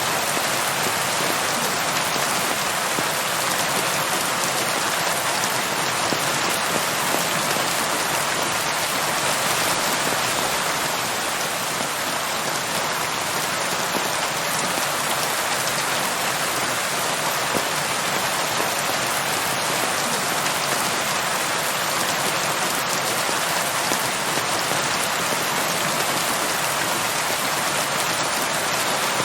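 Steady, even rain falling on a surface, with no thunder or distinct drips standing out.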